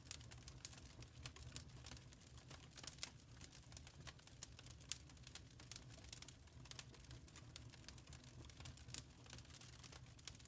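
Wood fire crackling in a fireplace, faint: irregular small pops and snaps over a low steady rumble.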